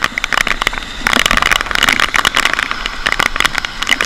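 Rain drops hitting close to the microphone, a dense, irregular crackle of sharp ticks that gets louder and brighter about a second in.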